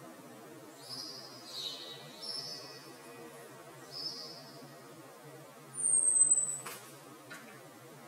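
Songbirds calling: several short high chirps in the first few seconds, then about six seconds in a loud, thin, very high whistle that falls slightly in pitch. Two sharp clicks follow it, over a steady faint background hiss.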